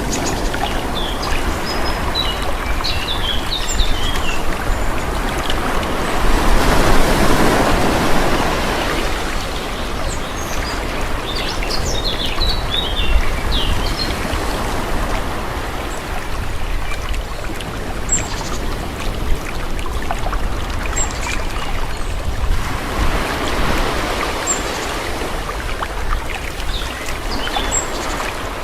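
Calm sea: a steady wash of gentle waves, swelling as a wave comes in about a quarter of the way through and again late on.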